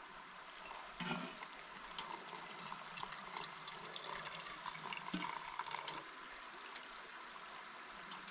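River water running and trickling, with many small splashes for the first six seconds, then settling to a quieter steady rush.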